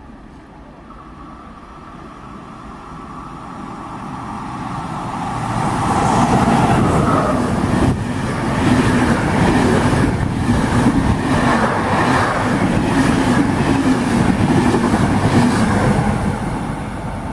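A passenger train of coaches approaches and passes through the station at speed without stopping. The sound builds steadily and a whine drops in pitch as the front goes by. The wheels then clatter rapidly over the rail joints before the sound fades near the end.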